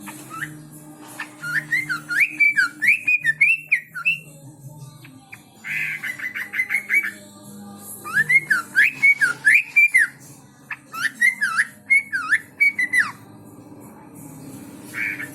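A caged songbird, not a red-whiskered bulbul, singing loud whistled phrases of quick rising-and-falling notes in three runs, with a harsh rattling call between the first two runs.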